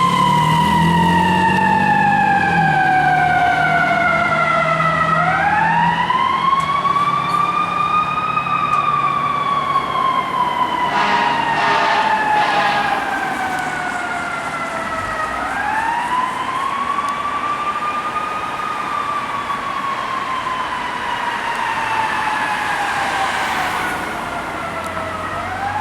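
Fire truck siren wailing in a slow cycle: the tone climbs over a few seconds, then falls slowly for several more, twice over, and fades gradually. The truck's engine is heard at the start, and a brief cluster of short bursts comes about halfway through.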